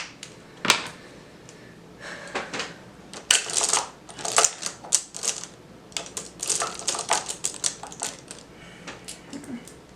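Rapid, irregular clicking and tapping of coloured pencils and pens being handled and tapped against the paper: a single sharp click near the start, then a dense run of clicks that thins out near the end.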